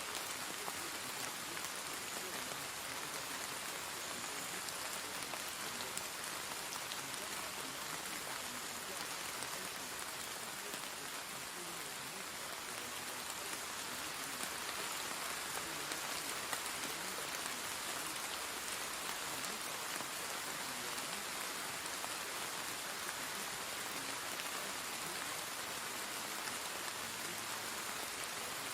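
Steady rain falling on a surface, an even hiss with scattered drop patters.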